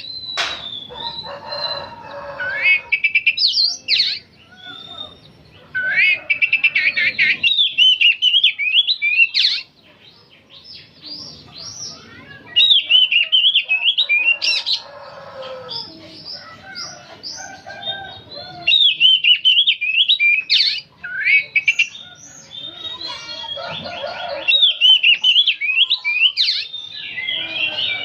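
Oriental magpie-robin (kacer) singing almost without pause: loud, fast, varied phrases of whistles and scratchy chatter, high-pitched, in bursts of a few seconds with short gaps between.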